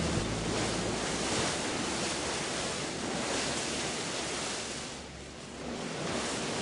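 Steady rushing noise of sea waves and wind, easing off briefly about five seconds in and swelling again.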